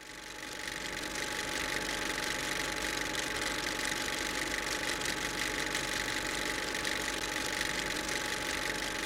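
Steady mechanical hum with a constant hiss and two faint steady tones, unchanging throughout.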